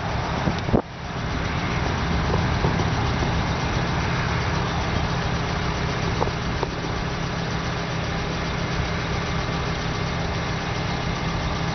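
Steady engine drone with a low hum underneath, holding level after a brief dip about a second in.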